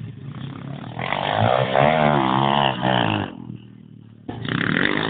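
Pit bike engine revving, its pitch rising and falling under the throttle. It drops away for about a second, then cuts back in loudly.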